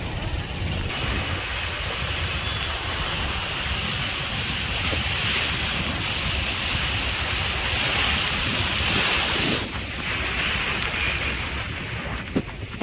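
Heavy monsoon rain hissing, mixed with wind buffeting the microphone on the move. The hiss drops suddenly near the end.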